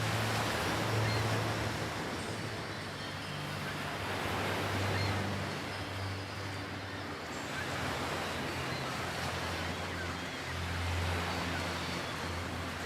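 Ocean wash, a steady rushing of water that swells and eases in slow waves, over a low ambient drone whose pitch shifts every second or two.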